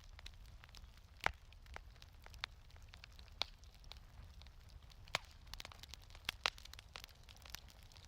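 Wood fire in a fireplace crackling, with irregular sharp pops, the loudest about a second in, over a low steady rumble.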